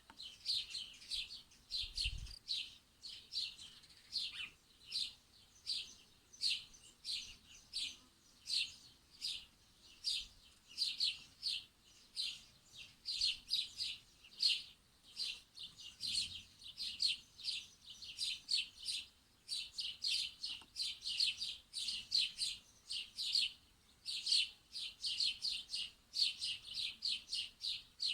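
Songbirds chirping without pause: a dense, continuous run of short high chirps, several a second.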